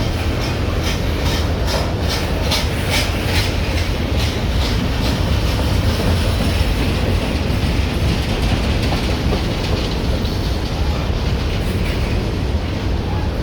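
Freight train rolling past, a steady heavy rumble with a rhythmic clickety-clack of wheels over rail joints during the first few seconds.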